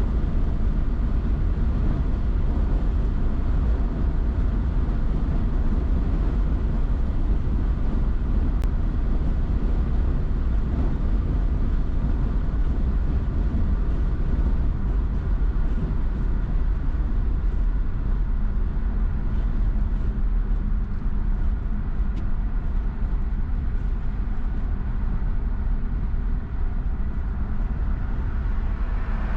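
Car driving at highway speed: steady tyre and engine noise with a deep rumble.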